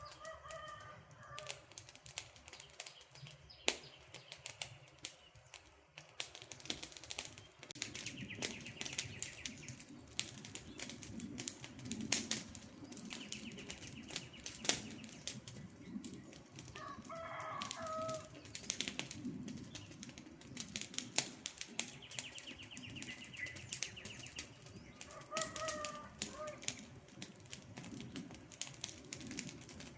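Campfire crackling and popping over a low rush of burning wood. A bird calls three times, each call about a second long, and a fast higher trill comes and goes between the calls.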